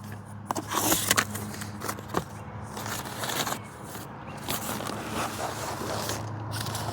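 Things being handled and rummaged through: rustling, scraping and scattered sharp clicks, over a low steady hum.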